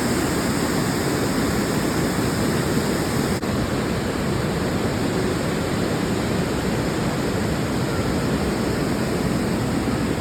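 Steady rushing wind noise buffeting the microphone while cycling, with one very brief dip about three and a half seconds in.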